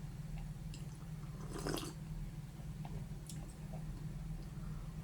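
A person chewing and biting food close to the microphone, with small wet mouth sounds and one louder bite about a second and a half in, over a steady low hum.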